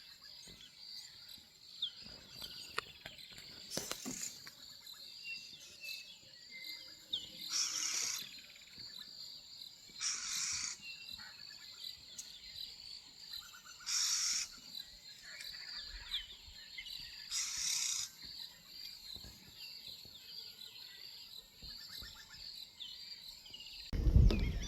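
Bush ambience: a steady high insect drone with scattered short bird chirps. About four louder, harsher calls of about a second each come at intervals. A loud low rumble starts just before the end.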